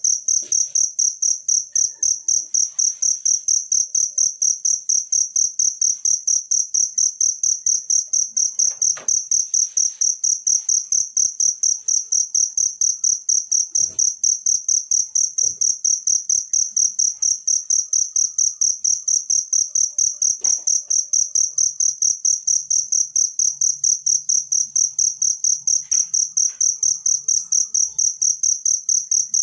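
A field cricket chirping steadily: a high, shrill chirp repeated evenly about three to four times a second without a break.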